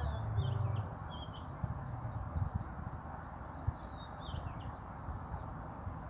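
Small birds chirping: a rapid run of short, high, down-slurred notes, thinning out toward the end, over a steady low rumble.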